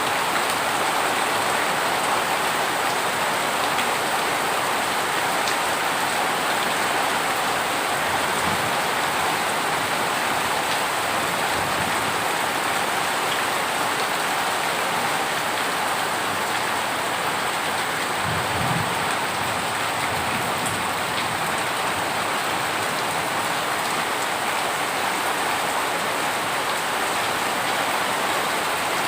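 Heavy rain falling steadily, a dense even hiss, with a few faint low rumbles beneath it.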